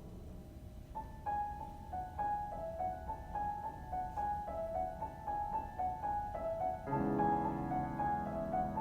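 Solo piano: a light melody of short, repeated high notes begins about a second in, and fuller, louder low chords join in near the end.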